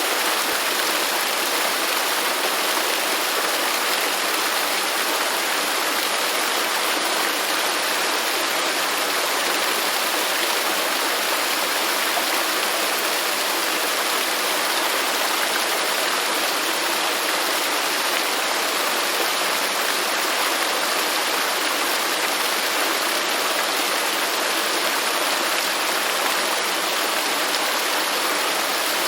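Waterfall: water falling and splashing in a steady, unbroken rush, with little deep rumble.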